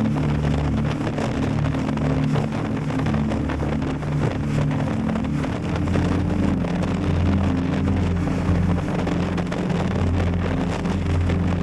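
Yamaha Tracer 7 GT's parallel-twin engine running while riding, with wind buffeting the action-camera microphone. The engine note changes about halfway through.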